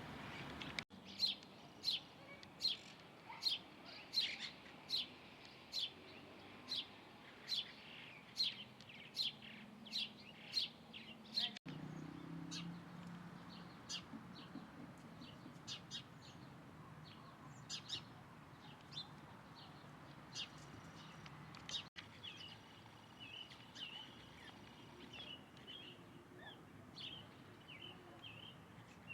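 Songbirds calling: a bird repeats a sharp, high chirp about one and a half times a second for the first ten seconds or so, then softer, scattered chirps and quick twittering follow.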